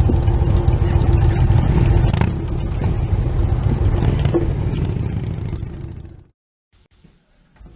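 Motorcycle engine running with a loud low rumble and some clatter, fading away about six seconds in.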